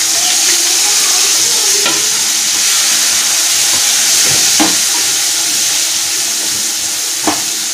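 Sliced bitter gourd sizzling steadily in hot oil in a kadai, having just been tipped in. A spatula stirs it and scrapes and knocks against the pan a few times.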